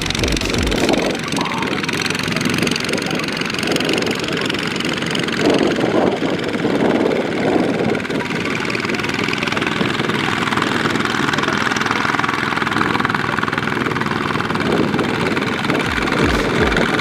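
Small tractor engine running under load, with a low chugging beat at the start that returns near the end.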